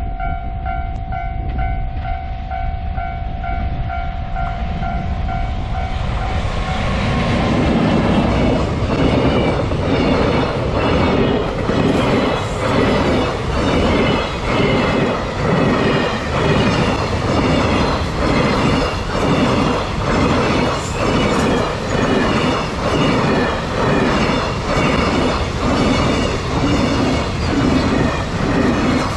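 Japanese level-crossing alarm ringing in quick pulsed tones. About six seconds in, a long train arrives and drowns it out, passing with a rhythmic clickety-clack of wheels over the rail joints that swells about once a second as each car goes by.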